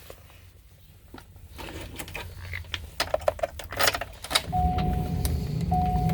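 Chevy 4500 bus's Duramax diesel V8 being started: a run of clicks and rattles, then about four and a half seconds in the engine catches and settles into a steady idle. A repeating electronic warning chime beeps over the idle.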